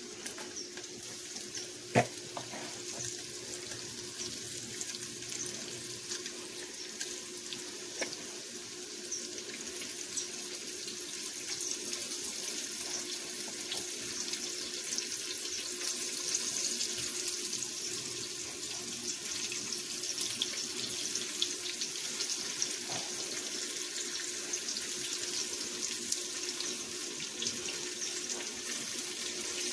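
Flour-dredged chicken liver frying in olive oil: a steady sizzle full of fine crackles, growing a little louder as it goes. One sharp knock about two seconds in.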